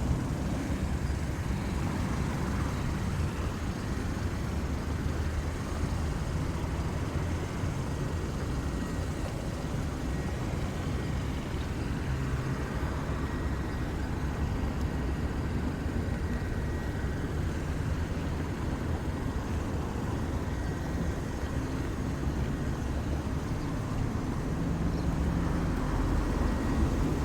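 Steady low background rumble with no distinct events, like outdoor ambience with distant traffic.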